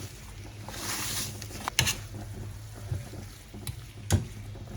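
A pan of japchae stir-frying with a soft sizzle, as a utensil stirs it and knocks against the pan a few times.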